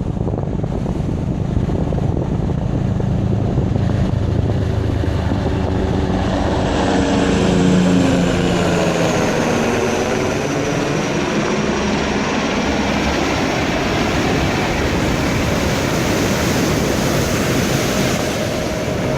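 A helicopter flying over, loudest about eight seconds in, its rotor and engine tones and a high turbine whine falling in pitch as it passes, over steady ocean surf.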